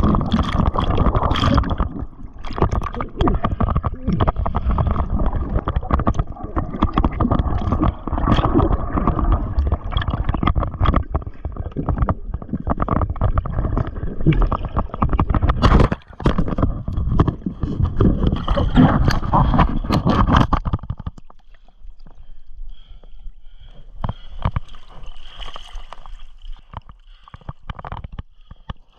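Water sloshing and gurgling against a kayak hull close to the microphone, loud and choppy with many small knocks, dropping suddenly to a much quieter hiss about twenty seconds in.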